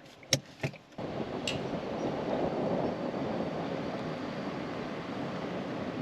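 A few sharp clicks, then from about a second in a steady rushing noise of a car on the move, with wind on the microphone.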